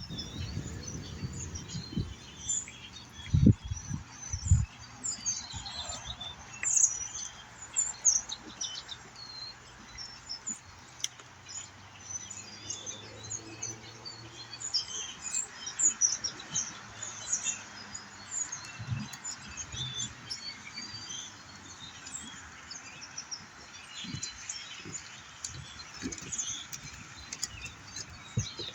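A large flock of birds calling, many short chirps overlapping without pause. A few low thumps sound about three and four and a half seconds in.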